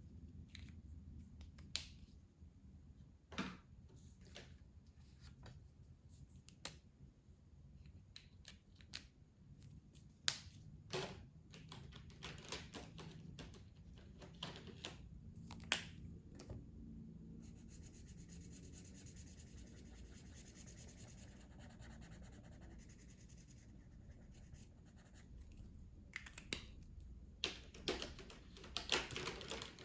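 Faint sounds of colouring on paper: scattered light clicks and taps of the colouring tool, with a stretch of steady scratchy strokes on paper past the middle and a quicker run of clicks near the end.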